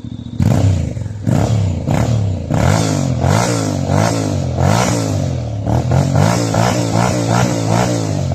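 Honda X-ADV750's parallel-twin engine revved over and over through an Akrapovic slip-on exhaust, a string of throttle blips that rise and fall in pitch and come quicker in the second half.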